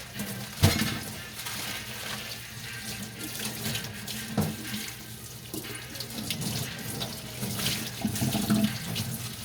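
Tap water running into a kitchen sink during hand dishwashing, with a few knocks of dishes against each other or the sink, the loudest about half a second in.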